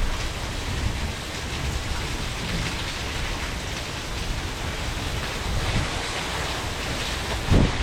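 Heavy rain and hail coming down in a steady rush, with low rumbling underneath. A louder low thump comes near the end.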